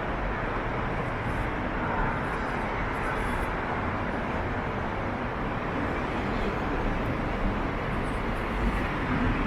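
Steady city street noise from road traffic, an even hum with no distinct events.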